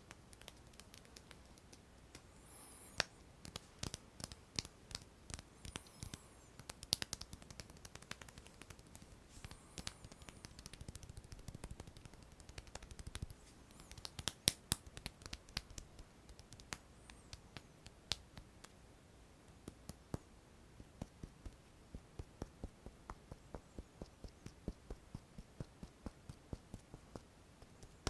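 Close-miked ASMR hand sounds: many quick, dry, irregular clicks and taps, with a few brief rubbing swishes.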